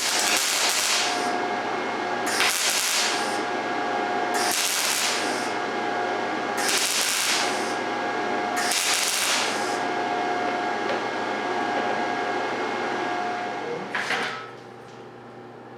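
MIG welding arc with 75/25 argon-CO2 shielding gas, laying a bead at the voltage just raised to 17. It gives a steady sizzle and crackle with louder surges about every two seconds. The arc stops about fourteen seconds in, leaving a quieter steady hum.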